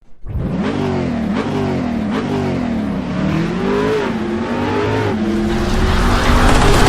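An engine revving. Its pitch rises and falls several times in the first few seconds, then holds steadier and grows louder near the end.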